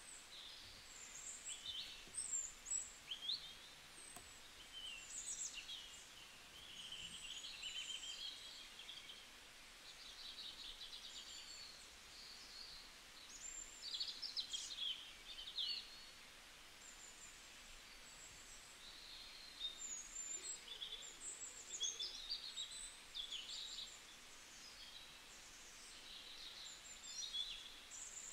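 A chorus of small birds chirping, with many short, high calls and quick trills overlapping throughout.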